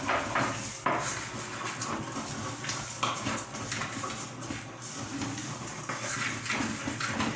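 Kitchen clatter: pots, dishes and utensils clinking and knocking at irregular moments.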